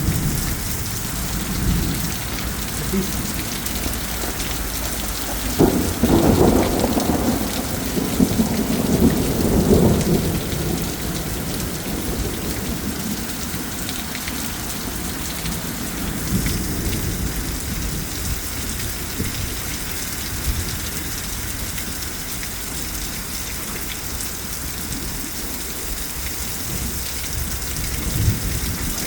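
Heavy rain falling steadily, with a long low rumble of thunder starting about six seconds in and lasting several seconds.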